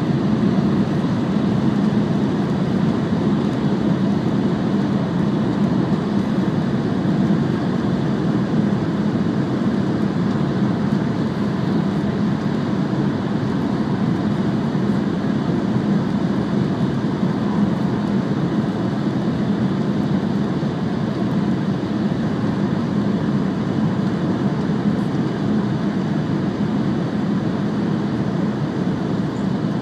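Cabin noise of an E5 series Shinkansen running steadily: an even low rumble that does not rise or fall.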